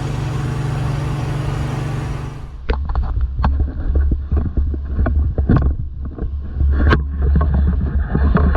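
Strong gale-force wind, steady at 40 mph or more, blowing over the microphone as a full hiss. About two and a half seconds in the sound changes abruptly to a deep rumble of wind buffeting the microphone, with sharp gusty hits.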